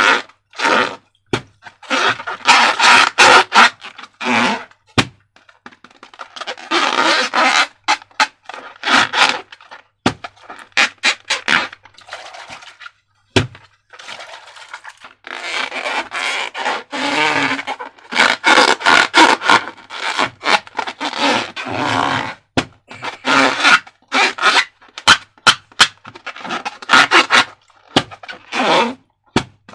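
Slime being handled and mixed: stretches of sticky crackling and scraping with many sharp clicks, broken by short pauses.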